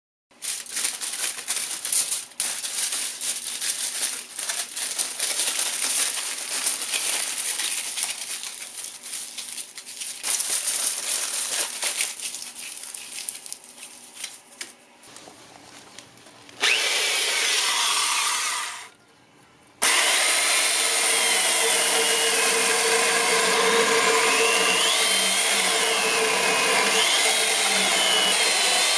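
Firewood being sawn: rough, irregular scraping strokes with many small knocks for about sixteen seconds, then, after a short break, a steadier continuous cutting noise.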